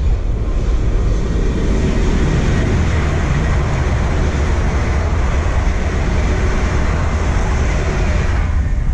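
London Midland Class 350 Desiro electric multiple unit passing at speed: a steady rush of wheels on rail and air that dies away near the end.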